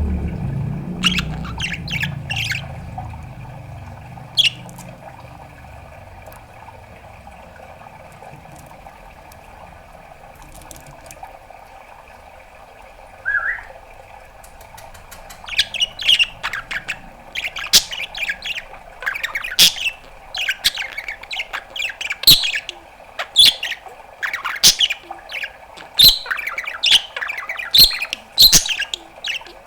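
Pet budgerigar chirping and squawking: a few sharp calls near the start, a quieter lull, then a fast run of chirps and squawks from about halfway on. A low rumble fades out over the first few seconds.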